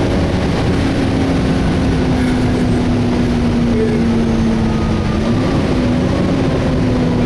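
Volvo B7TL double-decker bus heard from inside on the move: the engine and cooling fan running, with a steady tone that sinks slowly in pitch, lifts briefly near the end, then settles again, over a constant low rumble. The fan is running without its usual screech.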